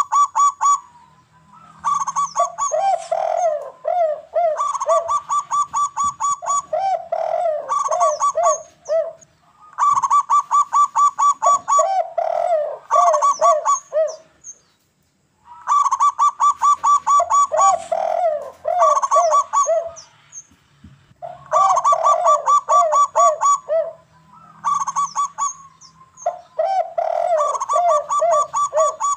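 Zebra doves (perkutut) and a spotted dove (derkuku) cooing, a continuous run of overlapping phrases. Each phrase is a rapid string of quick, evenly spaced notes, about eight a second, mixed with lower rounded coos. The phrases come in runs a couple of seconds long with brief gaps, and there is one short silence about halfway through.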